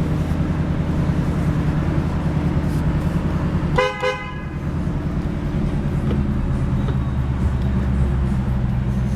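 2011 Ford Mustang GT's 5.0-litre V8 idling steadily, with a short double beep of a car horn about four seconds in.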